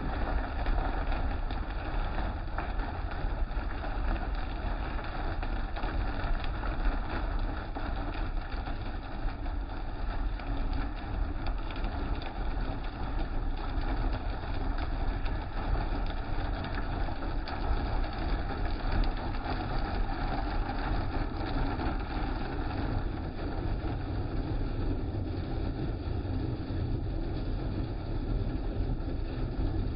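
Car wash running: a steady, even mechanical and water noise, low and dense, with no pauses or changes.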